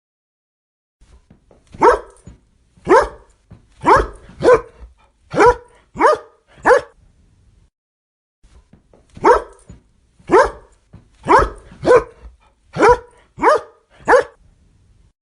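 A dog barking in two runs of seven barks, each run about five seconds long, with a pause of about two seconds between them.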